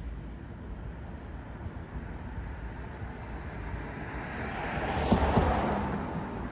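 A vehicle passing on a city street: its noise swells to a peak about five seconds in and then fades, over a steady low hum of traffic.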